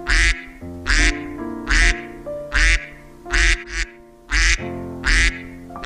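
A duck quacking again and again, about seven loud quacks a little under a second apart, over background music with long held notes.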